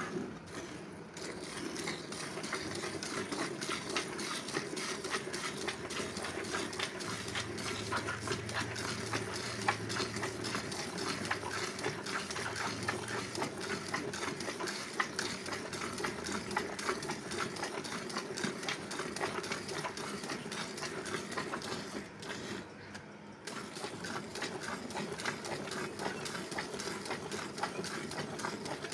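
Cow being milked by hand: rapid, rhythmic squirts of milk into a bucket, with a brief pause about two-thirds of the way through.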